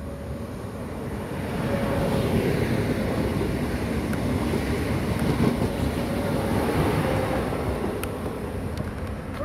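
Koleje Małopolskie electric multiple unit passing through the station at speed: the rumble and hiss of its wheels on the rails swells as it comes alongside about a second and a half in, holds steady while the carriages go by, and eases off near the end as it draws away.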